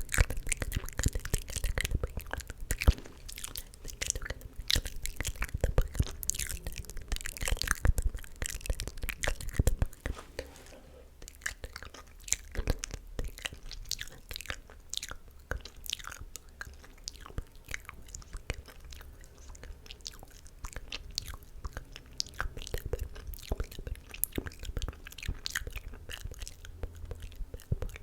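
Close-miked ASMR mouth sounds: wet clicks, smacks and tongue pops in quick, irregular succession, denser and louder for the first ten seconds, then sparser and softer.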